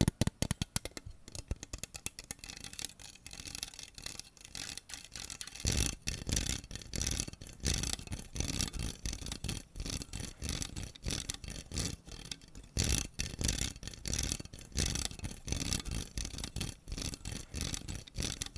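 Close-miked rapid rubbing and scratching strokes on an object, several a second, turning heavier and fuller about six seconds in.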